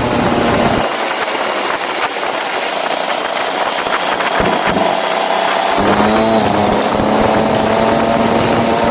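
Go-kart engine running, easing off and then picking up and accelerating again about six seconds in, its pitch rising, over a steady hiss.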